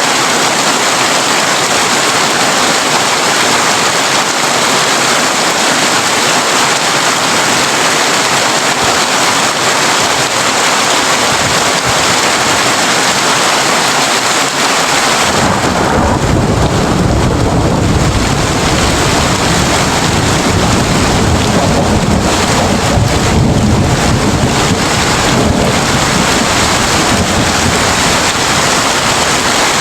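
Heavy rain drumming on a tin roof, a steady dense hiss. About halfway through, a low rumble of thunder comes in suddenly and rolls on to the end.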